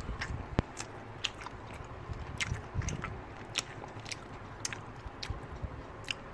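Close-up chewing and biting of crispy fried chicken, with scattered crackly clicks at irregular intervals, along with the handling of the chicken in its paper-lined box.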